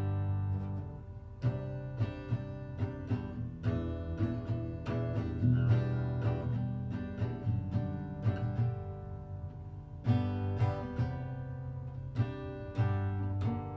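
Acoustic guitar strummed in a steady chord pattern, with no singing.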